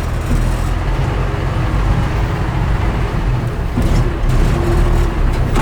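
Deuce-and-a-half military truck's multifuel inline-six engine running steadily under load as the truck creeps along in low gear.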